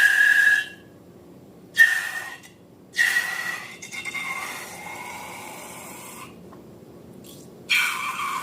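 Air hissing out of a rubber balloon's neck with a squeaky squeal, in four bursts: two short ones, a long one of about three seconds, and another near the end.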